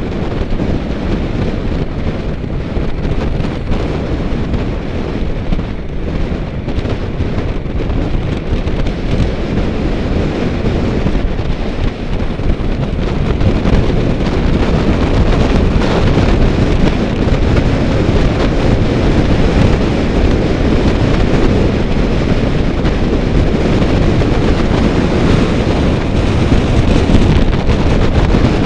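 Wind rushing over the microphone of a camera carried on a moving bicycle: a steady, loud roar that grows louder about halfway through.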